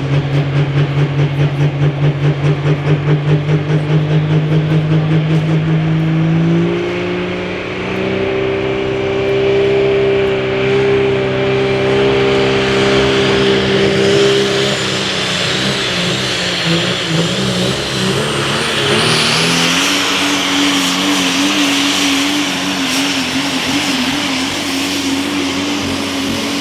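Multi-turbocharged Chevrolet super stock diesel pulling truck under full load down the track. The engine note pulses rapidly at first, jumps up in pitch about six seconds in and holds, sags around fifteen seconds, then climbs again near twenty seconds, with a high whine rising above it.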